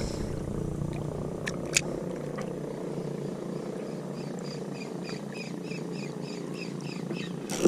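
An insect chirping steadily, about three chirps a second, from a few seconds in, over a steady low outdoor rush; two sharp clicks sound near the start.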